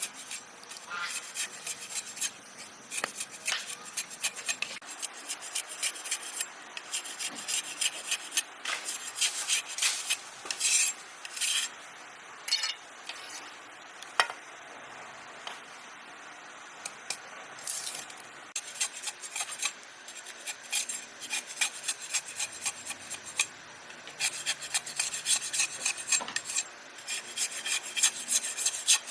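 Rapid, repeated scraping and rubbing strokes, thinning to a few separate clicks in the middle and then picking up again.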